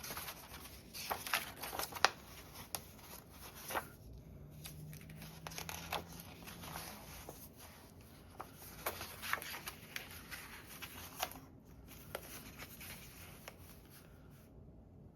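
Paper and card being handled: scattered light rustles, taps and clicks as paper pockets and journal cards are moved and folded, with a sharper tap about two seconds in.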